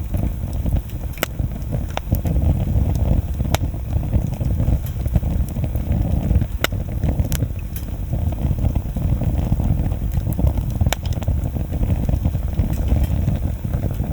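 Wood bonfire burning: a steady low rush of flames with about half a dozen sharp pops and snaps from the burning wood scattered through it.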